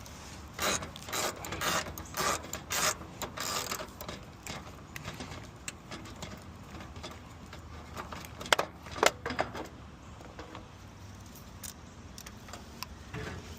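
Metallic clinking and rattling of tools and loose car parts being worked on. A quick run of clicks comes in the first few seconds, then scattered knocks, with two sharper clicks a little past halfway.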